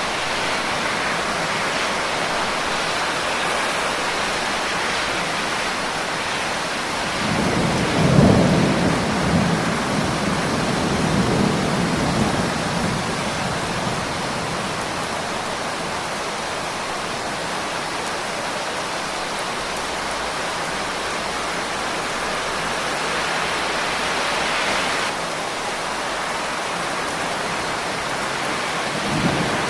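Steady rain, with a roll of thunder about a quarter of the way in that rumbles for several seconds and fades away.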